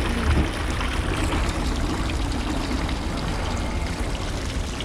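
Water running and splashing steadily, with a low hum beneath.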